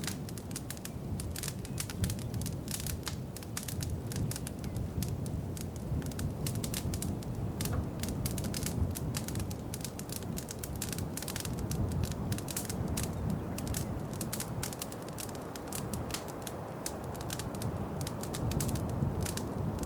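Wood fire crackling in a fireplace: a steady low rush of flames with many sharp pops and snaps scattered through it.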